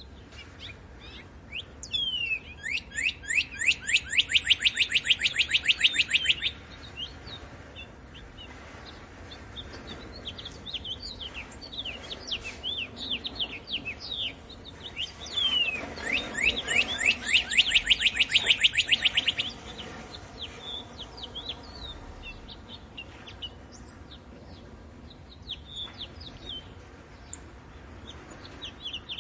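Several birds singing and chirping. Twice a loud trill of rapid, evenly repeated falling notes runs for about four seconds: once a few seconds in and again past the middle.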